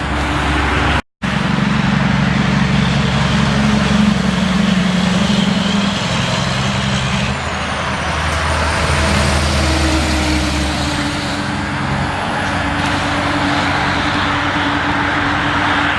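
Heavy truck's diesel engine running close by over road and traffic noise, with the pitch of its engine shifting a couple of times. The sound cuts out completely for a moment about a second in.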